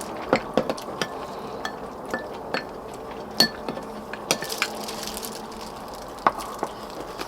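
Spoons and chopsticks clinking and scraping against bowls while eating pork-bone soup: a string of irregular, sharp clinks, the loudest about three and a half seconds in and again just after six seconds.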